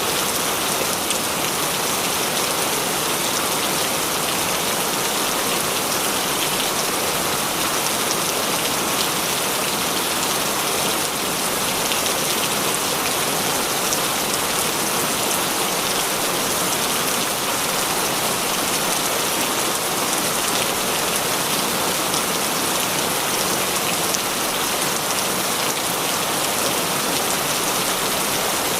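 Heavy rain falling steadily, a dense even hiss with fine drops pattering on surfaces.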